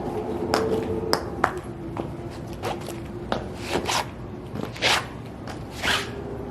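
High-heeled shoes striking the ground: a few sharp heel clicks in the first two seconds, then heavier, scuffing stomps about once a second.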